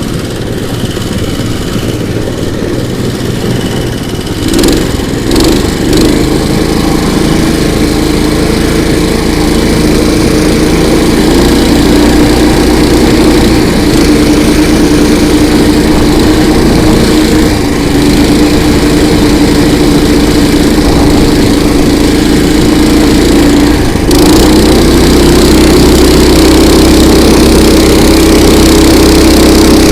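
Petrol engine of an all-season motorised towing sled running steadily under load, its pitch holding fairly even. It grows louder about five seconds in and again about three quarters of the way through as the throttle opens.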